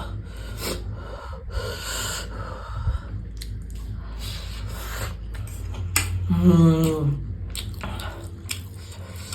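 A man eating chow mein noodles: chewing and slurping with sharp, noisy breaths, and a short hum with falling pitch about six seconds in.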